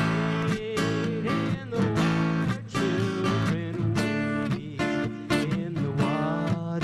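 Acoustic guitar strummed in a steady rhythm, playing a song accompaniment.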